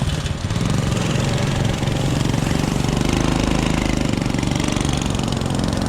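Small two-stroke motorized-bicycle engine idling with a rapid knocking beat, its pitch lifting slightly about halfway through.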